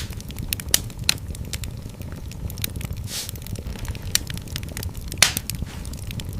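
Wood fire in a fireplace crackling, with frequent sharp pops over a steady low rumble of the flames. There is a short hiss about three seconds in and a louder pop just after five seconds.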